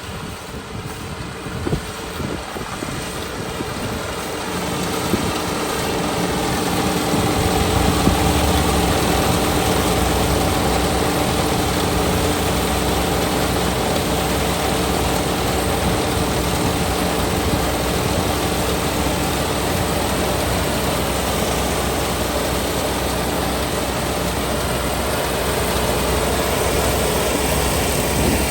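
Kubota ER572 combine harvester's 72-horsepower diesel engine running, growing louder over the first several seconds and then holding a steady drone with a constant whine from the machinery.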